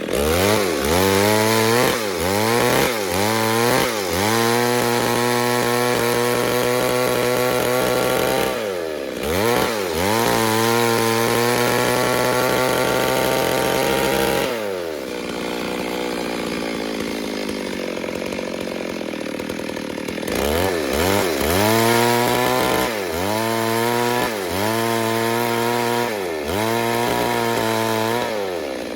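Stihl two-stroke chainsaw, likely an MS 382, revving: quick throttle blips at first, then held at full throttle for long stretches as it cuts through the log. It drops back to idle for several seconds near the middle, then is blipped up and down repeatedly toward the end.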